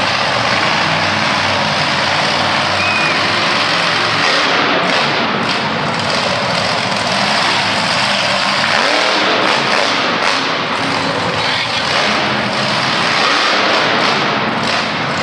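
Monster truck engine running loud and steady, with dense noise throughout.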